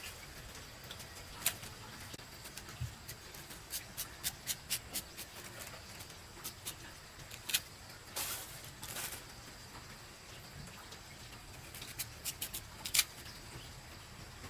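Irregular light clicks and taps, a dozen or more scattered across the few seconds, some in quick clusters, over a faint steady background.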